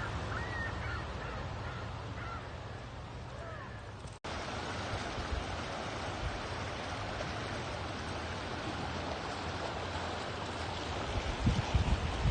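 Small birds chirping over a steady rush of flowing water; about four seconds in the chirps stop and the rushing continues fuller, with a few low thumps near the end.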